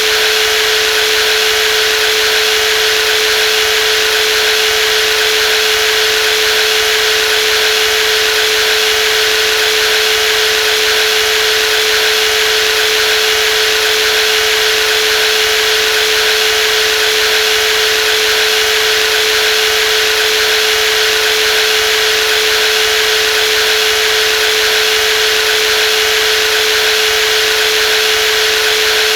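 Brushless jigsaw running continuously at a steady speed: a constant high motor whine over a dense, even hiss, with no change in pitch or level.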